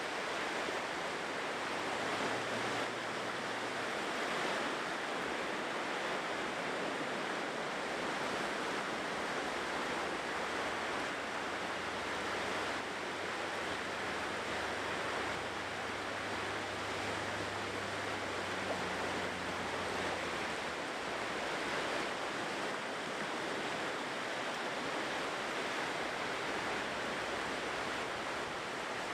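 Ocean surf washing continuously onto a shore: a steady rush of breaking and receding waves with no clear separate crashes. A faint low hum sits underneath for a few seconds early on and again through the middle.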